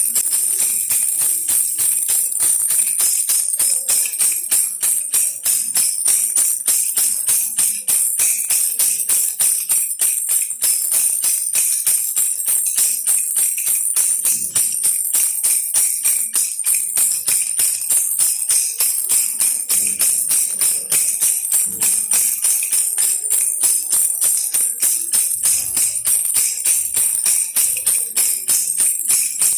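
Baby rattle toy with small bells, shaken steadily in a fast, even rhythm of several shakes a second, giving a bright, continuous jingling.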